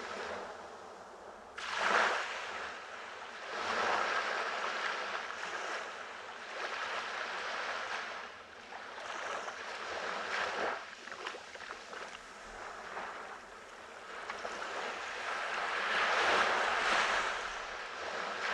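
Ocean waves breaking on a beach, the surf swelling and falling in slow surges, with a sudden louder break about two seconds in and a long swell near the end.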